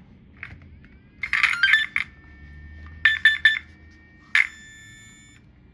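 Electric steering servo of an Arrma Mojave RC truck whining in short bursts as the steering is worked, three times. The stock servo strains against the steering.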